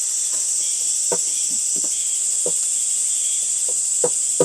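Crickets chirring in a steady, high-pitched chorus, with a few soft, irregular clicks over it.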